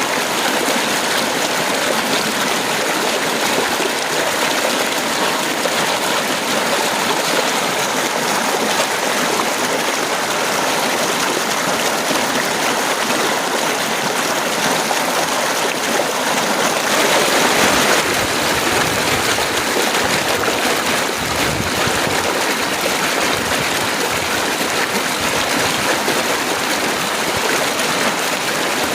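Heavy rain pouring steadily in a dense, even hiss. A little past halfway it swells briefly and a low rumble comes in under it for a few seconds.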